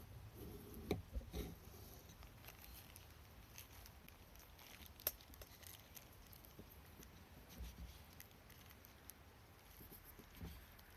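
Faint scattered clicks and taps, the sharpest about a second in and again about five seconds in, over quiet background.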